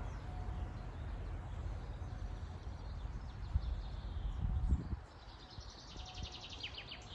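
Songbirds singing, with a fast trill of notes falling in pitch near the end, over a low rumble that drops away about five seconds in.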